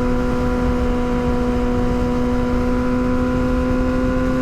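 Yamaha R6 inline-four engine cruising at a steady, constant rpm, holding one even note, over a rough low rumble of wind.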